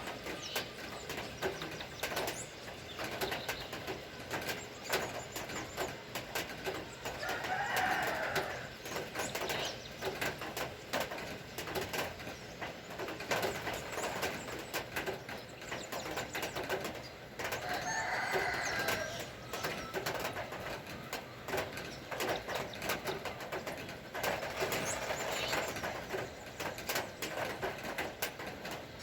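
Rain dripping and tapping in many quick drops, while a bird calls three times about every eight to ten seconds.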